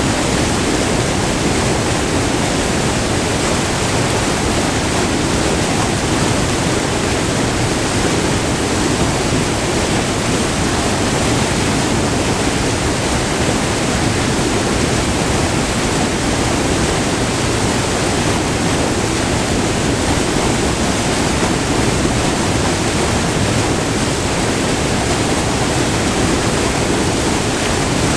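White water rushing over a short, multi-tiered waterfall: a steady, loud, even rush with no change throughout.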